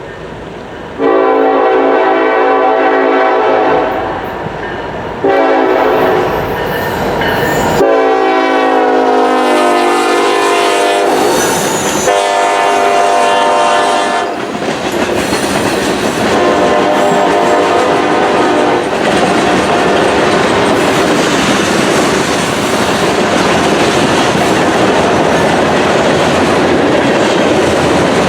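Train passing with its locomotive horn sounding several long chord blasts, the pitch dropping slightly as it goes by, followed by the steady rumble and clatter of the cars rolling past on the rails.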